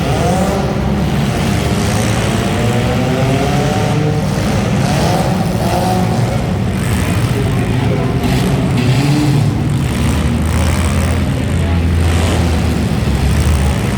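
Several car engines running at once, a steady loud rumble with engines revving up and down over it.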